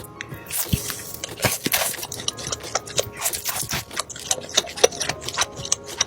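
Close-up crunching and chewing of crispy fried chicken, a quick run of irregular crackling bites.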